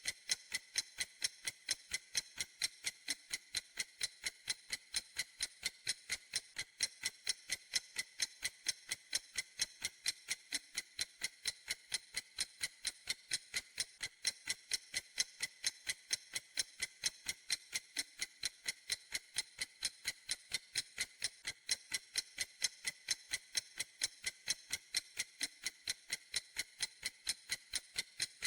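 Clock ticking steadily: sharp, evenly spaced high clicks, a few a second, in an unbroken rhythm.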